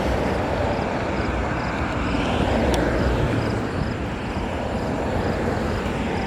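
Steady traffic noise with tyres hissing on a wet road, swelling as a vehicle passes about two and a half seconds in. A faint high tick repeats a few times a second throughout.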